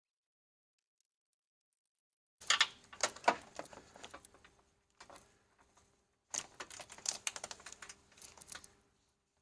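Silent for the first couple of seconds, then two bursts of quick, irregular clicking and rattling from hand tools working on plastic clips and small bolts.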